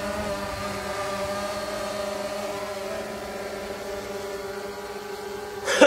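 DJI Phantom 2 quadcopter propellers giving a steady, even hum that slowly fades as the drone flies away. A brief, loud burst of noise comes just before the end.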